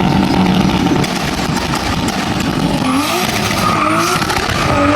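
Turbocharged 2JZ inline-six in a drift car running hard and loud, its pitch climbing in short repeated pulls in the second half, over a dense rushing hiss.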